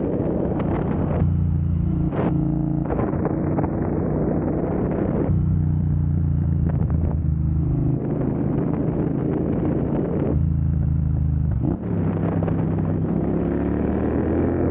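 2022 Triumph Bonneville Speedmaster's parallel-twin engine running through an aftermarket Dr. Jekill & Mr. Hyde electronically adjustable exhaust, idling with several throttle blips, then revs climbing slowly near the end.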